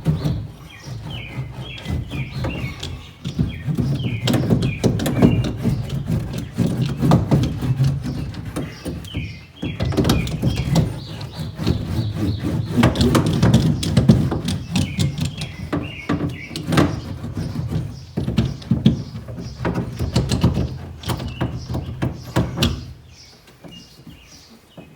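Crackling, clicking handling noise of a foil-backed sound-deadening mat being pressed and worked down onto a car body panel, with birds chirping in short bursts now and then.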